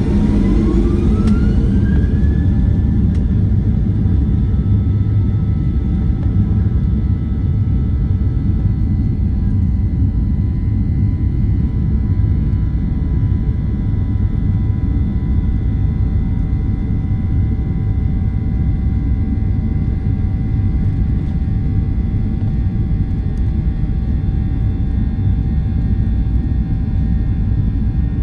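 Boeing 737-800's CFM56 jet engines heard from inside the cabin: their whine rises over the first couple of seconds, then holds at several steady pitches over a heavy, constant rumble.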